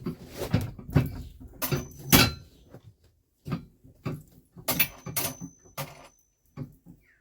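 Irregular knocks and clatters of metal parts of a motorbike jack being handled and set down, loudest in the first half, with a pause around three seconds in.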